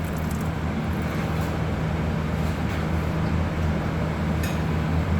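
Steady low mechanical hum at a constant pitch and level, with a faint light tick about four and a half seconds in.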